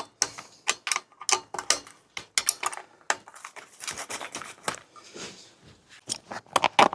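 Metal hand tools and bike parts clinking and clicking, a run of short, irregular knocks as a 13 mm spanner or socket is worked on a bolt.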